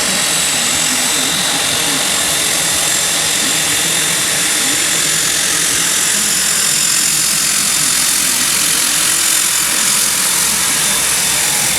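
Embraer EMB 120 Brasília twin-turboprop engines running as the aircraft taxis: a steady, loud rush with high, thin whining tones over it.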